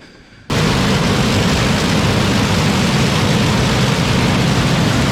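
Combine harvester's diesel engine running steadily at high speed, cutting in abruptly about half a second in.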